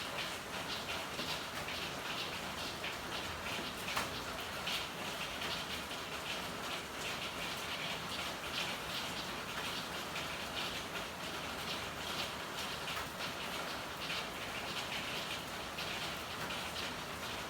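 Steady rain falling, a dense patter of drops, with one sharper tick about four seconds in.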